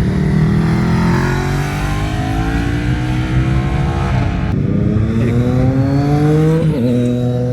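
Sport motorcycle accelerating hard up the road, its engine pitch climbing steadily and dropping at two upshifts, about four seconds in and again near the end.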